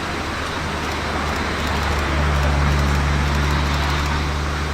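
Jet noise from a Boeing 747-8F's four GEnx-2B engines: a steady rush with a low drone that grows louder about two seconds in, then eases slightly near the end.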